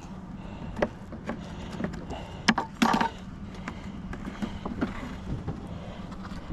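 Wooden beehive boxes and frames being handled: scattered knocks, clicks and scrapes, the loudest a cluster of knocks about two and a half to three seconds in, over a low steady hum.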